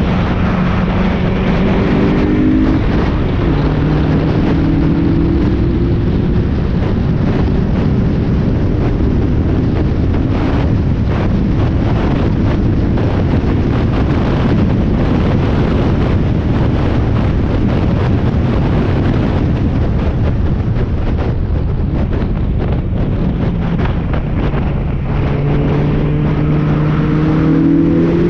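Spec Miata's four-cylinder racing engine heard from inside the car under hard acceleration, its pitch climbing, dropping sharply at an upshift about two and a half seconds in, then climbing again. Through the middle the engine tone is buried under a loud wind rush on the microphone, and near the end it climbs in pitch once more.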